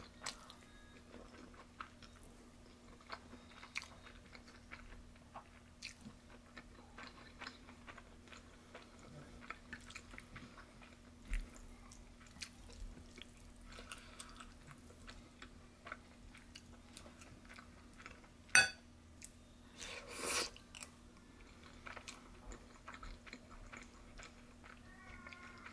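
A person chewing food close to the microphone, with many small soft clicks as she eats. There is a sharp click about two-thirds of the way in and a short louder noise about two seconds later.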